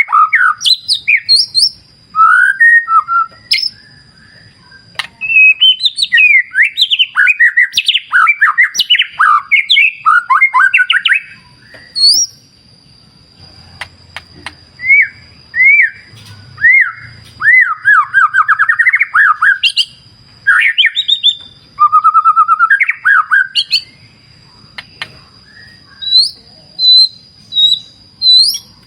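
White-rumped shama (murai batu) singing: loud bursts of quick, varied whistled and chirping phrases, broken by short pauses.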